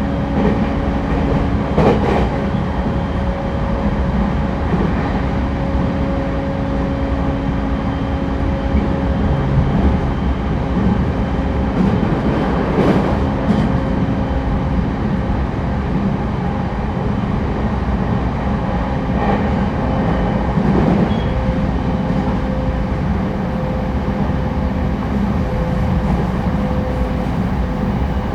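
Interior running sound of an E231-1000 series electric commuter train travelling at speed: a steady rumble of wheels on rail with a faint continuous motor hum, and a few brief rail-joint knocks.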